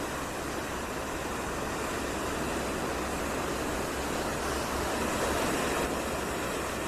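Steady rushing noise of sea and wind, with a faint low hum underneath.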